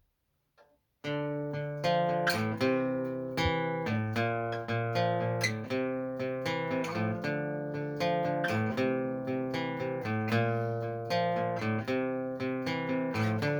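Acoustic guitar playing a picked chord pattern as a song's intro, starting about a second in, with many separate plucked notes ringing over each other.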